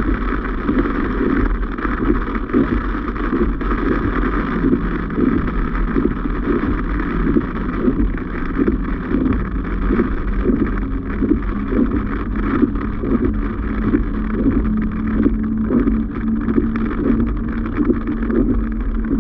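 Car on the move, with steady road and engine rumble and wind buffeting the microphone; a steady low hum comes up near the end.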